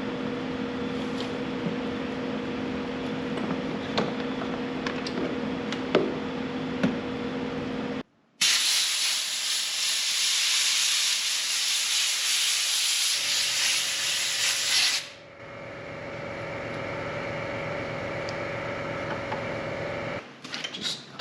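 A steady hum with two low tones, then, after a break, a loud, even hiss of compressed air from an air nozzle for about seven seconds, then a quieter steady hum.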